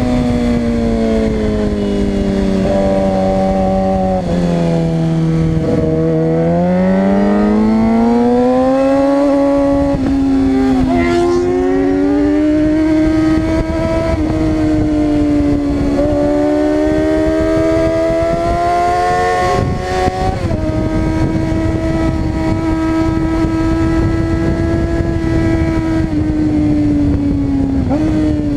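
Suzuki GSX-R 600's inline-four engine being ridden hard on a race track. The pitch falls over the first several seconds, climbs again, then holds high, with brief jumps where the gears are changed.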